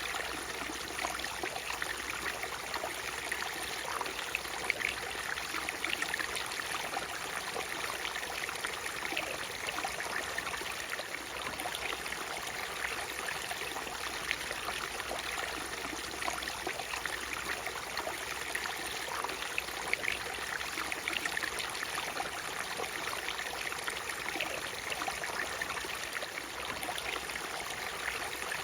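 Natural waterfall: falling water splashing steadily, with many small splatters and little deep rumble.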